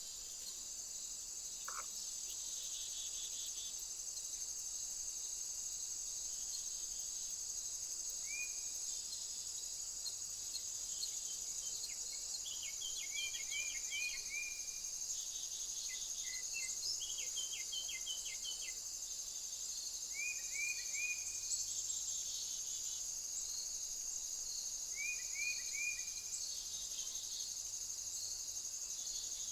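A steady, high insect chorus runs throughout. Over it, a small bird gives short runs of three or four quick chirps several times.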